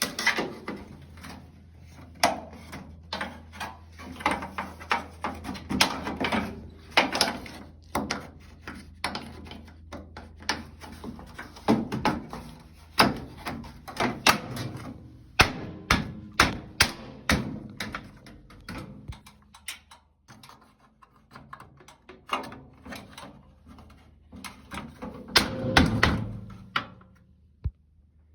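Clothes dryer being reassembled by hand: a run of irregular knocks, clunks and clicks of metal panels and plastic parts being handled and fitted back together, with a louder burst of clunks near the end.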